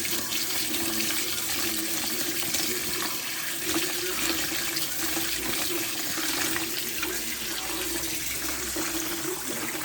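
Kitchen tap running into a sink: a steady rush of water that stops just before the end.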